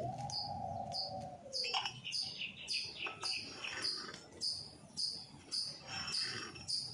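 A bird chirping over and over in short, high notes, about two a second, with a drawn-out tone sliding down in the first two seconds. Faint scraping underneath as ash is raked out from under the wood-fired water heater's firebox.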